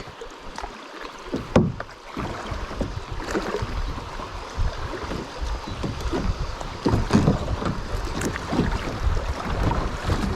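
River water sloshing and splashing, with wind buffeting the microphone in low gusts and a few sharp knocks or splashes scattered through.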